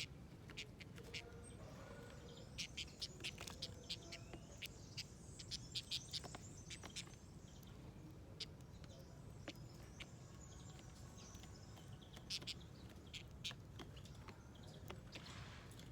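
Small wild birds at a garden feeder giving short, high chirps in scattered clusters over faint background noise.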